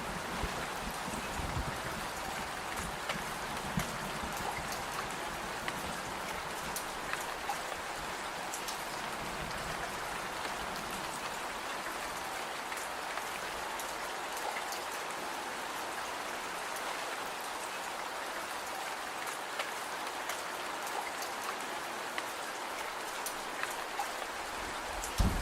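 Steady rain falling, with scattered sharp ticks and pops through it. A low rumble underneath eases away by about halfway through.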